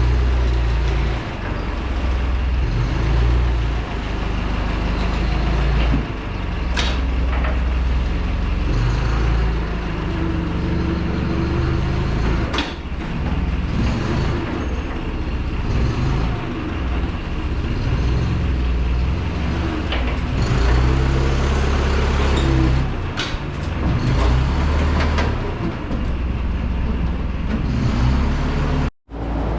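Forklift engine running with a low rumble, its revs rising and falling in steps as it moves, with a few sharp metal clanks.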